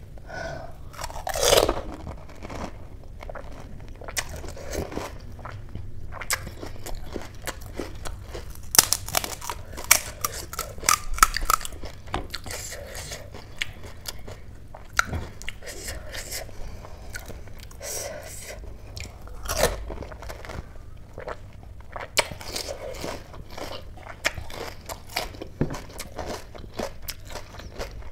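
Crisp pani puri shells filled with spiced potato and spicy water, bitten and chewed close to the microphone. There are repeated sharp crunches and crackles among wet chewing, loudest about a second and a half in, again around nine to eleven seconds, and near twenty seconds.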